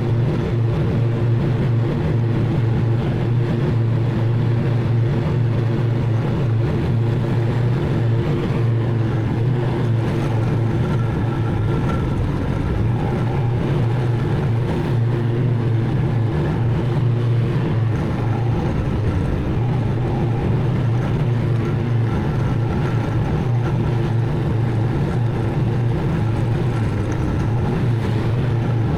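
Zero-turn mower engine running at a steady speed, a constant drone with no change in pitch.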